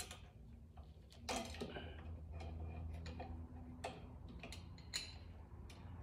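Scattered ticks and clicks of a hand wrench tightening the bolts on a BSA A65's front fork, over a low steady hum.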